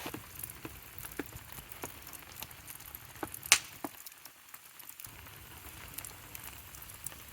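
Light rain and sleet pattering, with scattered small ticks and clicks and one sharper click about three and a half seconds in.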